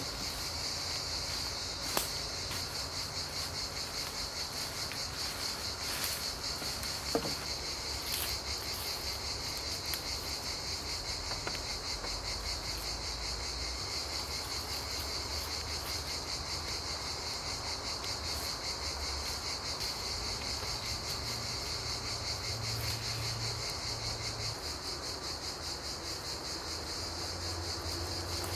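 A steady, high, rapidly pulsing insect chorus, typical of crickets, fills the whole stretch. A few sharp clicks or knocks come through about two, six, seven and eight seconds in.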